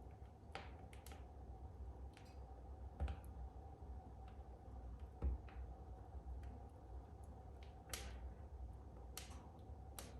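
Wood fire in a fireplace crackling: irregular sharp pops and snaps at uneven gaps of a second or more, over a faint low hum.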